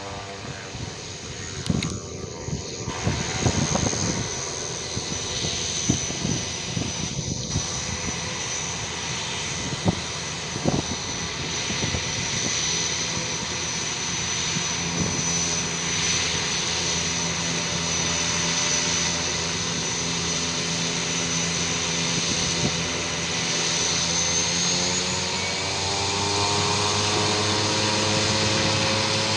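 Beechcraft King Air F90's twin turboprop engines running with a steady high turbine whine. In the last few seconds the propeller drone rises in pitch and grows louder as power comes up.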